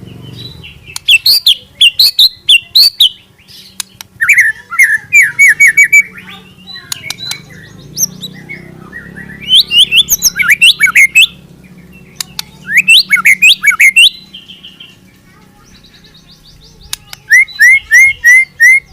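A murai (Copsychus songbird) singing loud, fast phrases of sharp whistled notes in about five bursts with short pauses between them, the rapid 'nembak' song.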